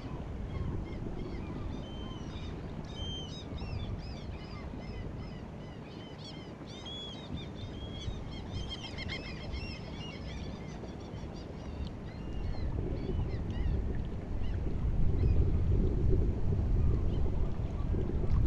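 A flock of birds calling in many short, high chirps and cries, thickest in the middle and dying away, over a steady low rumble of wind on the microphone and sea at the shore; the wind rumble grows louder near the end.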